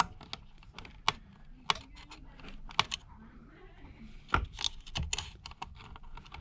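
Irregular light clicks and taps of small tools and parts being handled on an opened iPad, with a couple of louder knocks about four and five seconds in.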